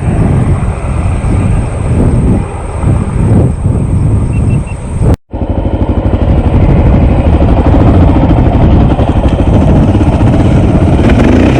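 Honda XR650L's air-cooled single-cylinder four-stroke engine running as the bike is ridden off-road, uneven at first, then steady after the sound cuts out briefly about five seconds in. The engine pitch climbs near the end.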